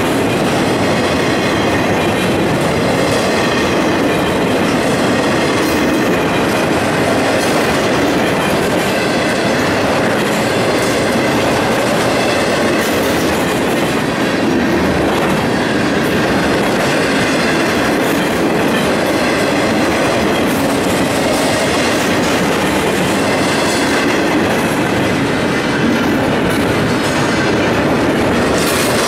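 Florida East Coast Railway intermodal freight train's trailer and container flatcars rolling steadily past at a grade crossing, the wheels clattering over the rails in a loud, even rumble.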